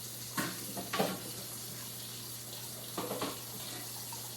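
Kitchen tap running steadily into a sink, with a few short clattering knocks, two in the first second and two more about three seconds in.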